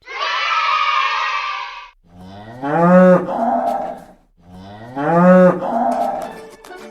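Domestic cow mooing twice, each moo a long call rising in pitch. It is preceded by about two seconds of loud hissing noise.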